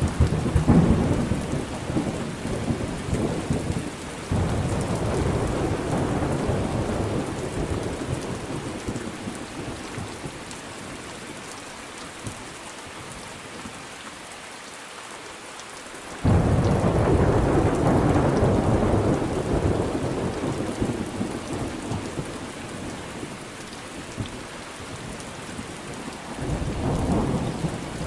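Thunderstorm: steady rain with rolling thunder. A rumble of thunder opens, another swells about 4 s in, a sudden loud clap comes about 16 s in and rolls away slowly over several seconds, and a softer rumble comes near the end.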